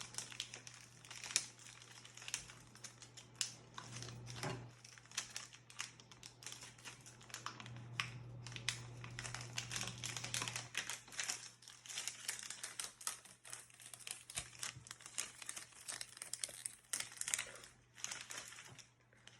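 Packaging crinkling and rustling in the hands as a small toy blind pack is unwrapped, a dense irregular crackle with occasional tearing that goes on almost throughout and stops shortly before the end.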